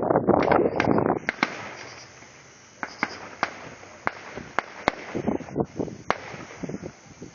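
Fireworks: about a second of dense crackling, then scattered sharp bangs, roughly one every half second to second, each echoing briefly.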